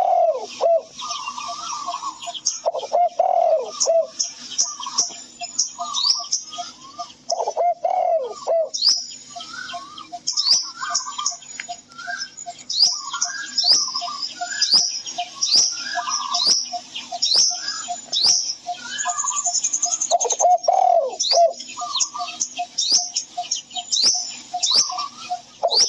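Several birds calling together: many quick, high, downward-sweeping chirps over lower calls that recur every few seconds.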